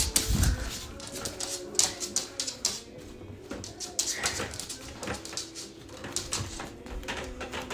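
A pet parrot's feet and beak tapping and scrabbling on a hard surface in quick, irregular clicks, with a brief high call about four seconds in.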